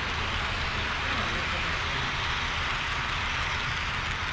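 HO scale model train running along the track: a steady, even noise of wheels on rail and locomotive running gear.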